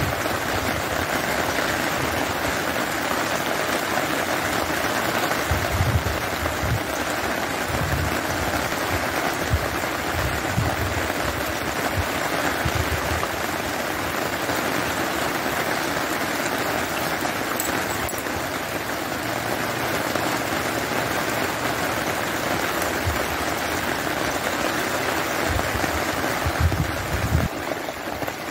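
Steady rain falling after a storm, an even hiss of drops on wet ground, with a few brief low bumps now and then.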